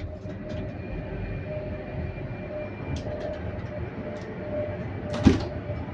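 Passenger train carriage running: a steady low rumble and hiss with a faint hum. A few light clicks come about three seconds in, and a single sharp knock comes about five seconds in.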